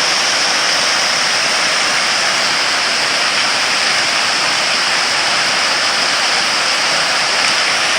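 Dzhur-Dzhur waterfall in Crimea pouring steadily: a loud, even rush of falling water.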